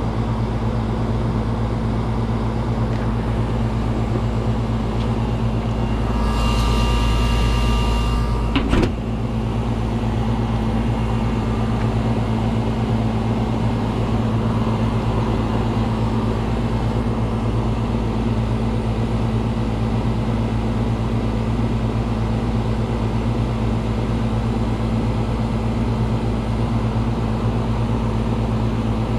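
Outdoor condenser of an R22 air conditioner running with a steady, low hum; the system is low on refrigerant. About six seconds in, a hiss with a faint whistle rises for a few seconds and stops with a click.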